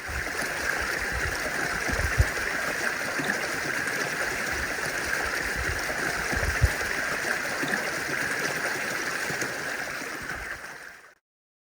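Creek water running over rocks: a steady rush that fades out near the end.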